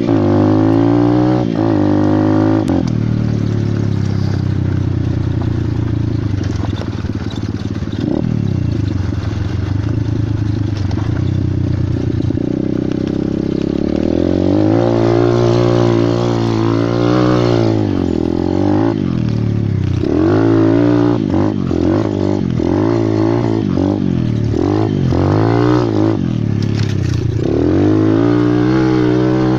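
Pit bike engine running hard and being revved up and down with the throttle, its pitch rising and falling again and again; it holds fairly steady for several seconds in the first half, then rises and falls quickly through the second half.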